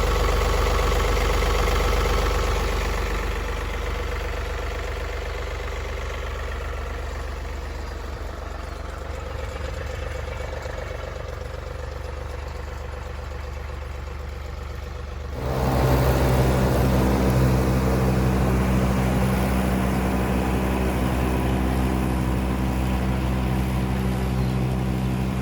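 John Deere 3039R compact diesel tractor running steadily while mowing tall wet grass with its 72-inch mid-mount deck. The engine note grows fainter over the first several seconds as the tractor moves away, then about fifteen seconds in switches abruptly to a louder, closer engine sound.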